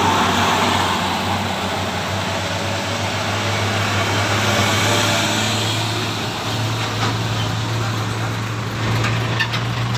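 Heavy diesel road vehicle running steadily on the road, a low engine hum under tyre and road roar that is loudest at the start and eases slightly.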